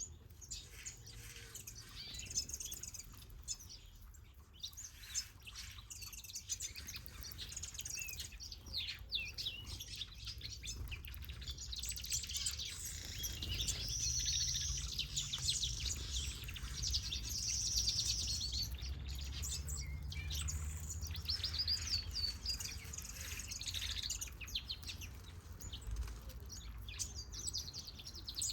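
A mixed group of aviary finches and softbills chirping and calling together, many short overlapping chirps and trills, busiest in the middle. A steady low hum runs underneath.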